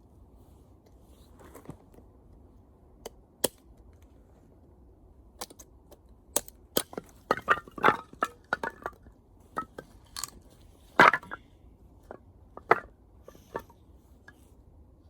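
Burning wood in a bonfire crackling and popping: irregular sharp cracks, coming thick and fast in the middle, with one loud pop about eleven seconds in.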